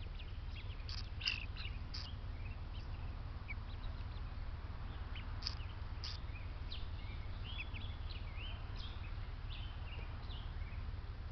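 Birds chirping and calling, many short high calls scattered throughout, over a steady low rumble.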